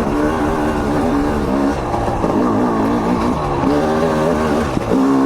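Single-cylinder two-stroke engine of a 2023 TM EN 300 fuel-injected enduro bike, its revs rising and falling unevenly as the throttle is worked on and off. The revs drop away briefly about two seconds in and again near the end.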